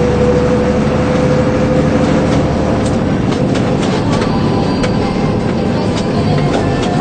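A DAF 75 lorry on the move: steady engine and road noise with a faint whine that fades after a couple of seconds and scattered light rattles and clicks.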